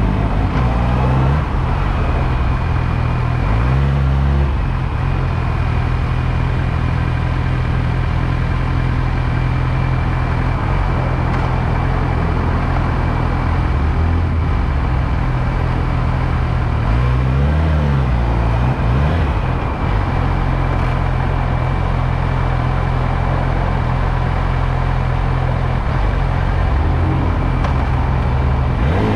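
Motorcycle engine running under way, with steady road and wind noise. Its note changes pitch briefly a few times, near the start, about four seconds in and around seventeen seconds in, and otherwise holds steady.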